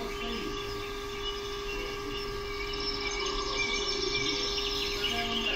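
Steady electrical-sounding hum with a constant tone, and small birds chirping that grow busier about halfway through.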